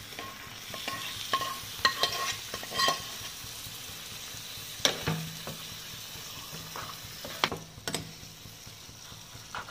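Paneer and green capsicum cubes frying in masala in a pan, with a steady sizzle. A spatula knocks and scrapes against the pan a dozen or so times, busiest in the first few seconds, as the pieces are stirred in.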